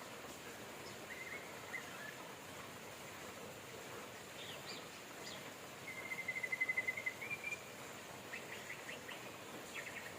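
Steady rain hiss with birds chirping over it. A rapid trill about six seconds in is the loudest call, and quick runs of short chirps come near the end.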